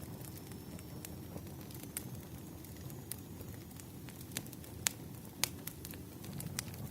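Wood fire in a fireplace crackling: scattered sharp pops over a steady low rumble, the loudest pops about five seconds in.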